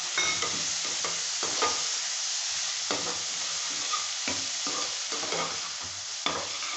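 Chopped tomatoes and onion frying in hot oil in a metal pan with a steady sizzle, while a metal spoon stirs them, knocking and scraping against the pan at irregular intervals.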